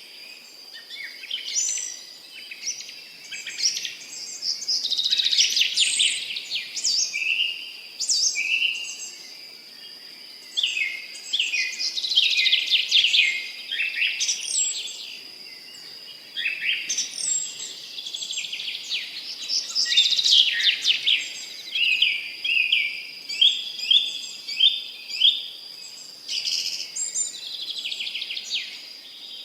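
Several songbirds singing in a garden chorus: quick phrases of rapid chirps and trills, overlapping and coming every second or two. A thin, steady high tone runs underneath.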